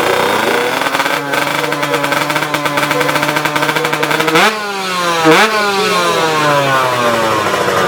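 Two-stroke drag-bike engine, a Kawasaki Ninja 155 tune-up racer, running at a steady high note, then revving sharply twice about halfway through and falling away in long dropping glides.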